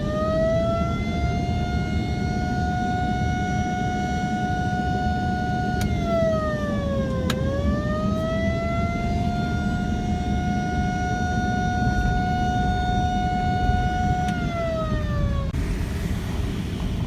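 A siren winding up to a steady wail, dipping and rising again about halfway through, then winding down and stopping near the end, over the low running noise of a truck. A siren like this is used on ranches to call cattle to follow the truck.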